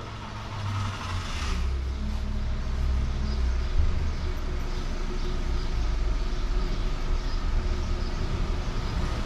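A motor vehicle's engine running close by: a steady low rumble.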